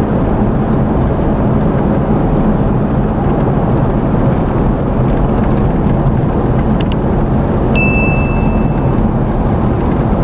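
Steady road and engine noise of a 4x4 on the move. A short high electronic beep sounds about three quarters of the way in, just after a couple of faint clicks.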